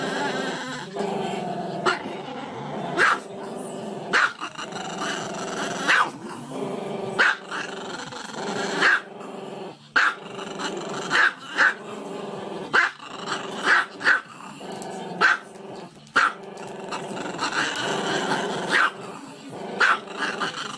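A small dog, head raised, making a continuous drawn-out vocal sound that is broken by sharp, loud barks about once a second.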